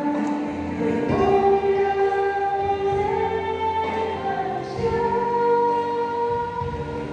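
A choir singing a slow song with long held notes.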